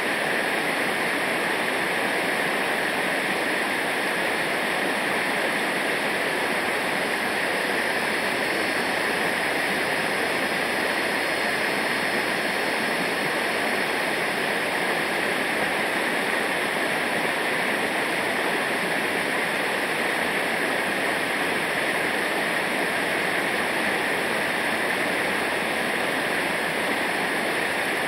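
Steady rushing of fast-flowing river water over rapids, unchanging throughout.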